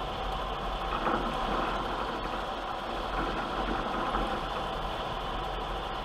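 Tunnel car wash machinery heard from inside the car: a steady wash of noise with faint mechanical clicking and a low hum.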